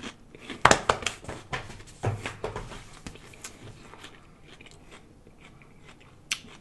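Close-up chewing of a crunchy mouthful of Caesar salad: wet crunches and smacks come thick in the first half, then die away, with one sharp click near the end.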